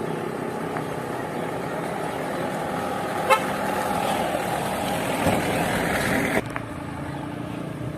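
Truck engine running steadily with a horn sounding, and a short sharp rattle about three seconds in. The sound drops abruptly near the end.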